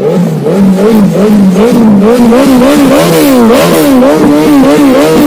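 Superbike engine revved hard in quick repeated blips, about two a second, the pitch climbing and dropping with each blip.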